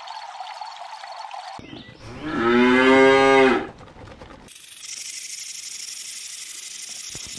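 Water running, then a cow mooing once in a single call of about a second and a half, the loudest sound here. A steady high hiss follows, starting about four and a half seconds in.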